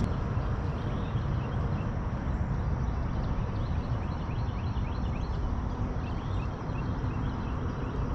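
Steady rumbling noise, strongest in the low range, with faint high chirps scattered through it.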